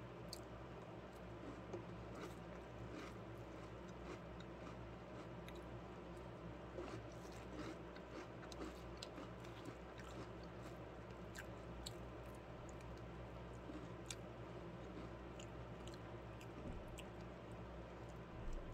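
Faint chewing of crunchy Cap'n Crunch cereal in milk, with scattered small clicks of a plastic spoon in a plastic cup.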